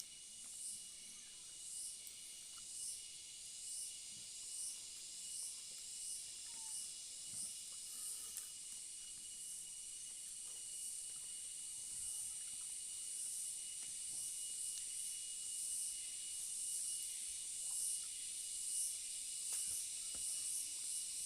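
A steady high hiss that swells about once a second, with a thin steady high tone under it, like a chorus of insects. A few faint soft crunches of chewing sit beneath it.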